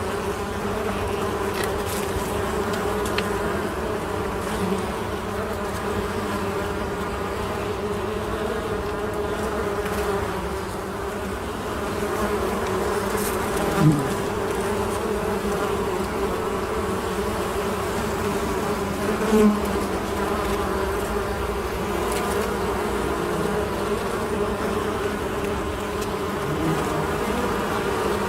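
Honey bees buzzing in a steady, dense drone. Two brief louder buzzes stand out, one falling in pitch about halfway through and another a few seconds later.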